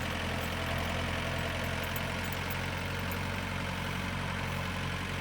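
Farm tractor engine running at a steady, even speed as the tractor is driven slowly.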